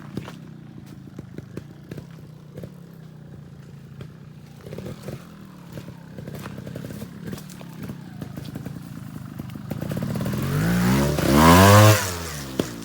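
Trials motorcycle engine ticking over at a low idle with scattered clicks and knocks, then revved up about ten seconds in, rising to a loud peak and dropping back near the end.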